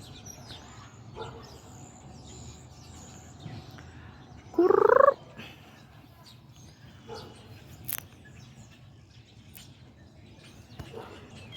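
Birds chirping faintly over a low outdoor hum, with one loud, short rising call about halfway through and a single sharp click a few seconds later.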